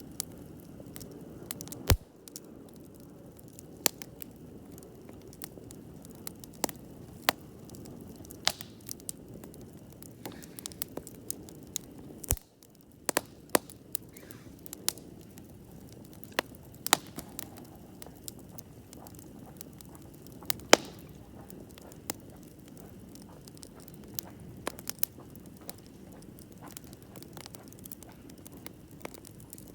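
Wood campfire burning: a low steady rustle of flames with sharp, irregular pops and crackles from the burning wood.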